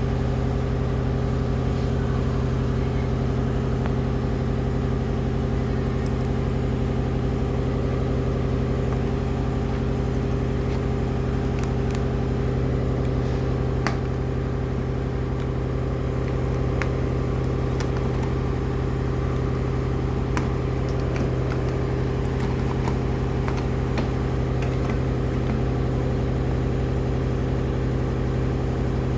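Steady low mechanical hum of a running machine, with a few faint sharp clicks.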